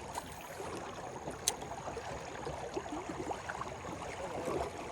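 River water gurgling and burbling steadily, with one sharp click about a second and a half in.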